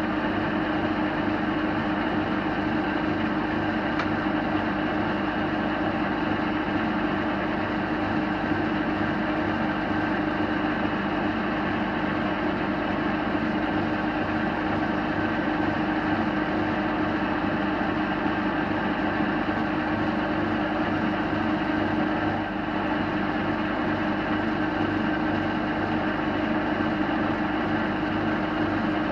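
Metal lathe running at a steady speed, giving a constant motor hum, while a freshly ground tool cuts a taper on a brass part.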